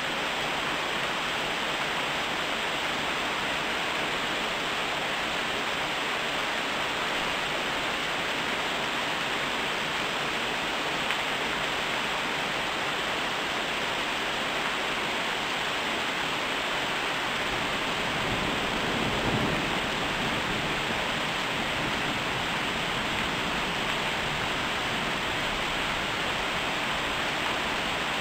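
Steady heavy summer rain falling on trees and the ground: a dense, even hiss. About two-thirds of the way in, a brief low rumble swells under it.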